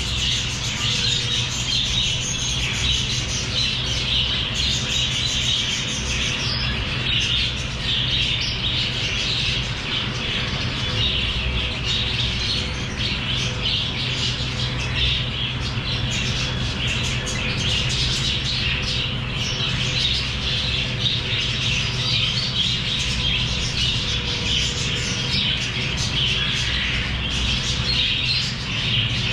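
A flock of small pet parrots chattering and squawking continuously, many calls overlapping, over a steady low hum.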